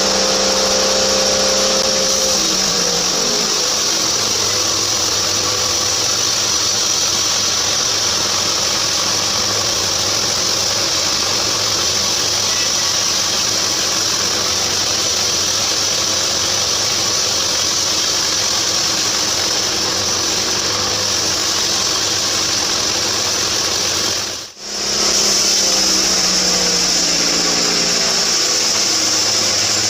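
Home-built band sawmill running steadily, its blade cutting through a rain tree (trembesi) log, with a strong steady high hiss over the motor's hum. The sound breaks off for an instant a few seconds before the end.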